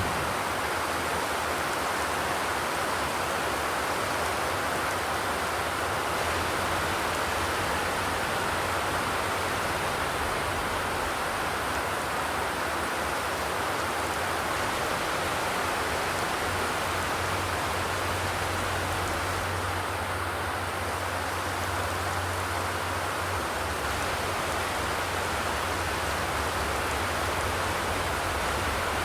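Steady rain falling on a zinc sheet roof: an even, unbroken hiss with no thunder.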